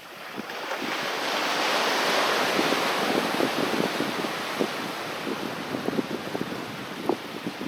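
Sea waves on a beach: a wave breaks and its hiss swells over about two seconds, then slowly fades as the water washes back, with short splashes and crackles of water at the shoreline throughout.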